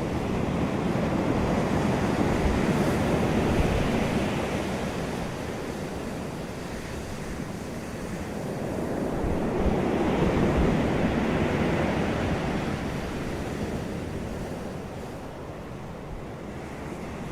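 Wind and surf noise, swelling twice, about seven seconds apart, and easing between, with wind buffeting the microphone.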